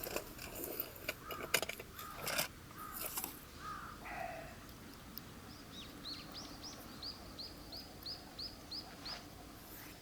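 A few sharp knocks and clatters in the first few seconds, then a bird sings a series of about a dozen short, high, down-slurred notes, about three a second.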